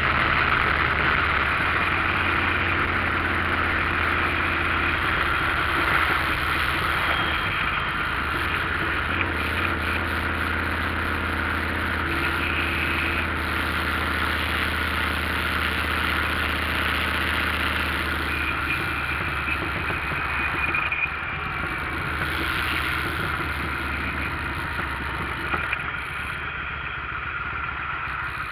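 Motorcycle engine running steadily under a steady rushing noise. The low engine note drops away about two-thirds of the way through.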